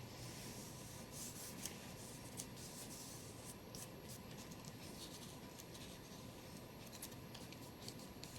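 Faint rubbing and rustling with scattered light ticks: paper and craft materials being handled on a work surface.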